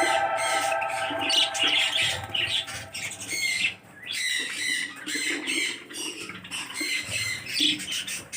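Small cage birds chirping and squawking in a rapid, irregular run of short calls, with the tail of background music fading out at the start.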